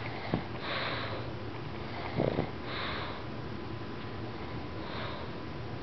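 Pug breathing noisily through its nose: three sniffing breaths about two seconds apart, with a louder short snort a little after two seconds in.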